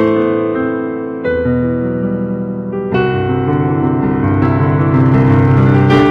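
Instrumental piano music: slow, sustained chords held for a second or two each, with a new chord struck about a second in and another, louder one near the middle.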